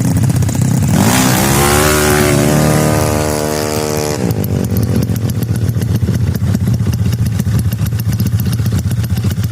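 Racing-tuned Yamaha Mio scooter engine idling, then revved hard about a second in: the pitch climbs quickly, holds high for about three seconds, and cuts back to idle.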